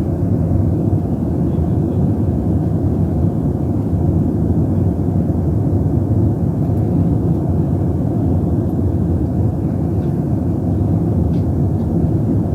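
Airliner engines running with a steady low drone as the plane warms up its engines before departure.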